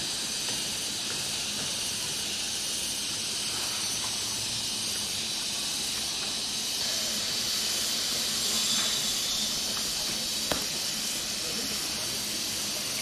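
Chicken satay skewers sizzling over a charcoal grill: a steady hiss, with a faint click about ten and a half seconds in.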